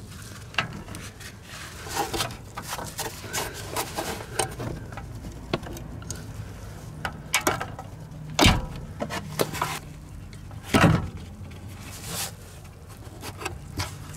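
Scattered metallic clinks and knocks of tools working on an exhaust under a car, unhooking the front rubber exhaust hangers, with two louder knocks past the middle.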